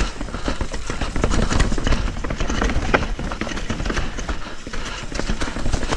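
Mountain bike rolling over a rough, rocky trail: tyres crunching and the bike rattling in quick, irregular knocks over a steady low rumble.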